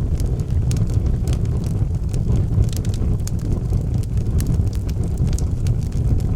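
Log fire burning in a fireplace: frequent irregular crackles and pops over a steady low rumble of the flames.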